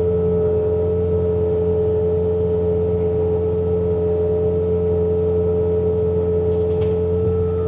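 Bobcat T66 compact track loader's diesel engine running steadily under load while it drives a snowblower attachment. A low drone carries a constant high whine, with no change in speed.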